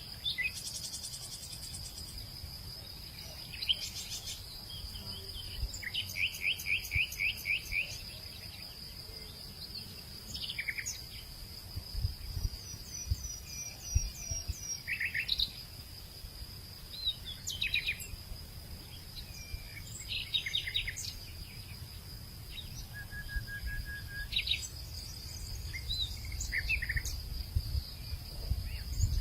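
Several wild birds calling and chirping in short, varied phrases, one giving a quick run of notes about six seconds in. Under them runs a steady, unbroken high insect drone, with a low rumble underneath.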